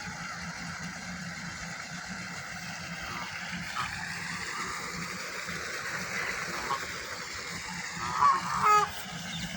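Ducks quacking, two short loud calls about eight seconds in, over a steady low background hum.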